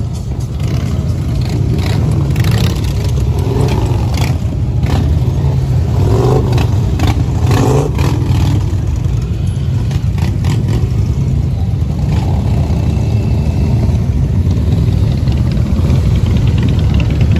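Many motorcycle engines running together in a steady low rumble, with several short revs in the first half.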